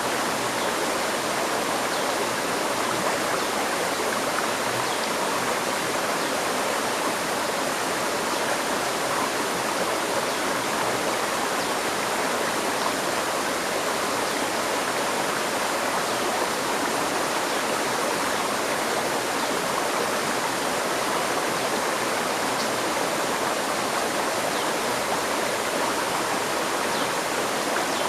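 Steady rushing of a flowing river stream, water running over rocks with an even, unbroken hiss.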